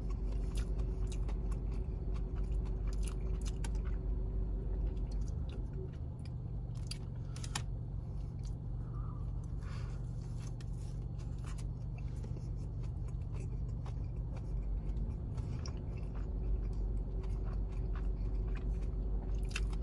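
A person chewing and biting into a fried chicken sandwich close to the microphone, with scattered crunches and mouth clicks, over a steady low hum.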